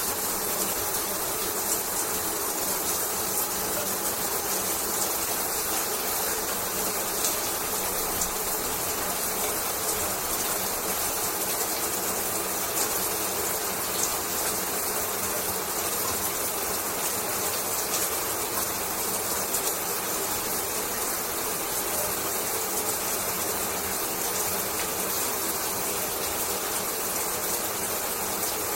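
Shower water running steadily, an even rushing hiss with no breaks.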